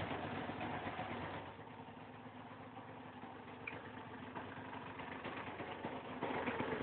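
Honda NSR 125's single-cylinder two-stroke engine idling steadily, louder for the first second or so and again near the end.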